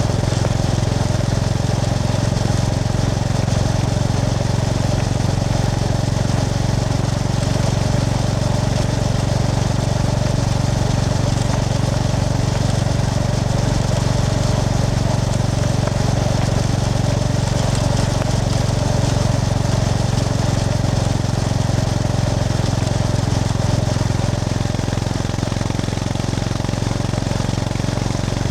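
Honda GB350S's air-cooled single-cylinder engine running at steady revs while the motorcycle is ridden along.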